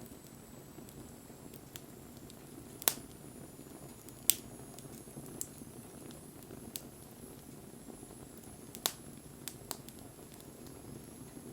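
Wood bonfire burning with a steady low rush, crackling with scattered sharp pops, three of them loud.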